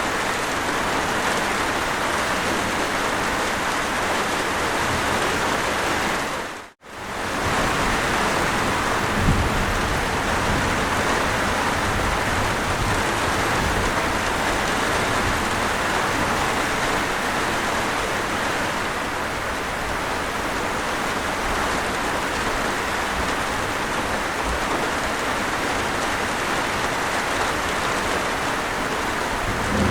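Steady rain falling, a dense even hiss of drops. About seven seconds in it fades briefly to near silence and swells straight back.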